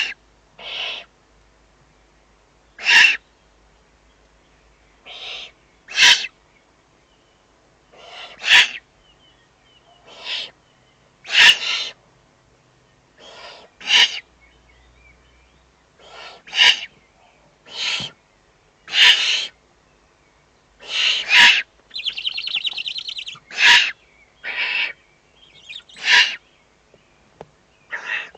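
Eurasian eagle-owl chicks giving hoarse, hissing begging calls while being fed, short rasps repeated every second or so, with one longer rattling call about two-thirds of the way through.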